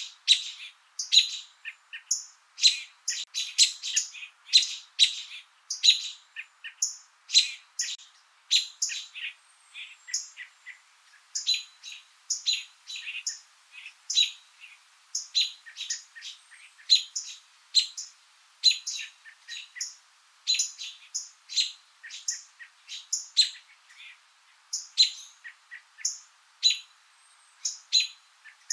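Songbirds chirping: a continuous run of short, sharp chirps, about two or three a second.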